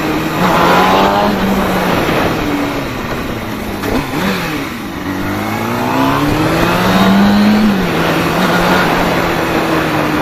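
Kawasaki Ninja sport bike engine under way, its note climbing under acceleration near the start and again from about five seconds in, with a dip around four seconds, over steady rushing wind noise.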